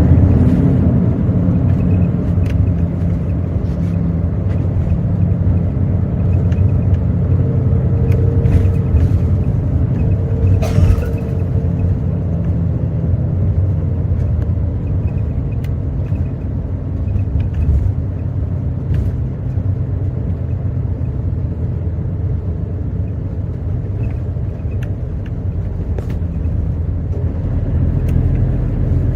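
Hino J08E-VD 7.7-litre inline-six turbo-diesel engine running as the bus drives, heard from inside the cabin as a steady low drone that eases a little midway and grows louder again near the end.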